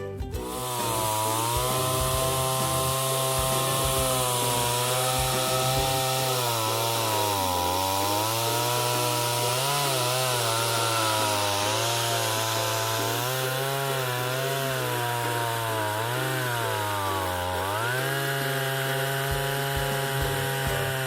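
Chainsaw running while cutting a dead, dry cedar for firewood, starting about half a second in; the engine pitch sags several times as the chain bogs in the cut, then picks back up.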